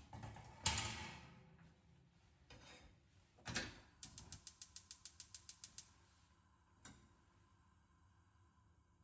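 Kitchen handling sounds: a clatter, a knock, then a quick even run of about fourteen sharp clicks, about eight a second, and a last single click.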